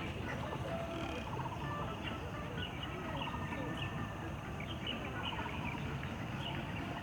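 Small birds chirping and trilling, many short calls over a steady low rumble of outdoor background noise.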